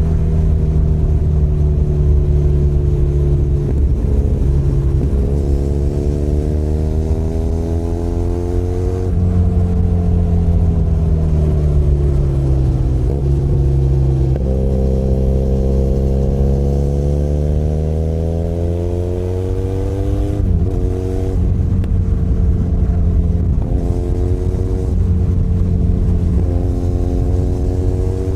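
Benelli Leoncino 500 Trail's parallel-twin engine under way. The revs climb and drop at several gear changes, fall away as the bike slows in the middle, and climb again through a quick run of upshifts in the last third.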